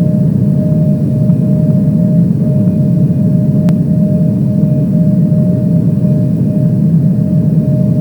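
Steady airliner cabin noise in flight: a loud, even rumble of engines and airflow with a steady hum tone running through it. A single small click about halfway through.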